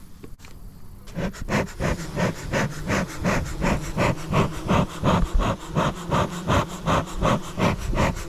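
Bee smoker bellows pumped in a steady rhythm, about three puffs a second, each a short breathy whoosh.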